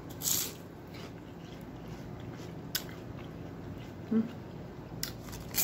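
A crunchy bite into a pork rind, followed by chewing with a few small crunches. A short hum about four seconds in.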